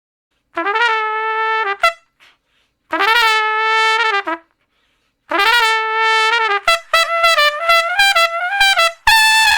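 A brass instrument playing three long held notes at the same pitch, then a quick run of short notes that step up and down.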